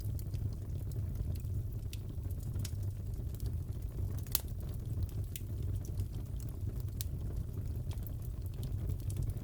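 Fireplace fire crackling: irregular sharp pops and snaps over a steady low rumble, with one louder pop about four seconds in.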